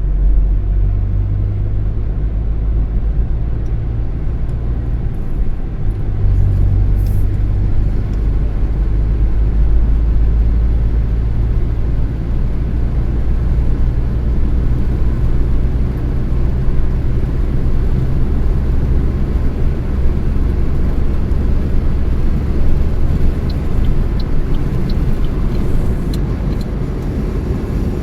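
Car driving at a steady pace: a steady low rumble of engine and tyres on the road.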